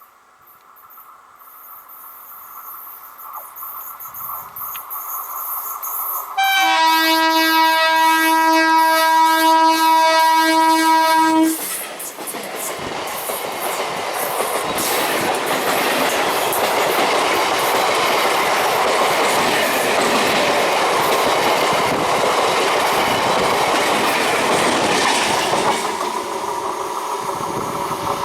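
A train drawing closer and growing louder, then an Indian Railways WAP-4 electric locomotive's horn sounding one long steady blast of about five seconds. The train then passes close by, its wheels clattering on the rails, and begins to fade near the end.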